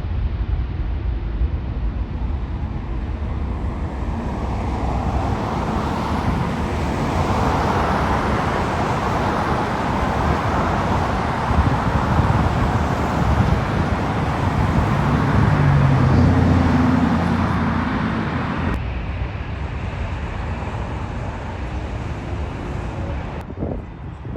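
Jet airliner passing by: engine noise swells over several seconds, peaks with a low drone, then fades and drops away abruptly about two-thirds of the way through.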